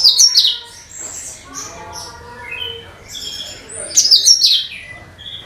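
Cucak kinoi bird singing: two loud bursts of rapid, high, sliding chirps, one at the start and another about four seconds in, with softer warbling notes between.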